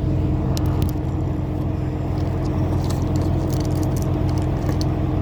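Idling vehicle engine, a steady low hum, with scattered faint clicks and ticks over it.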